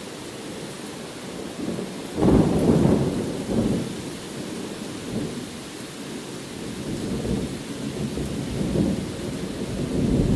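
Steady rain with rolling rumbles of thunder, the loudest rumble breaking about two seconds in and another building near the end.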